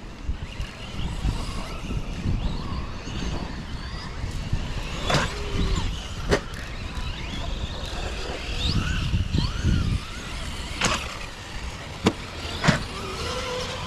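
Several electric RC monster trucks driving: their motors whine, rising and falling in pitch with the throttle, over a low rumble of tyres on the track. About five sharp knocks come through the run, from the trucks landing or striking ramps.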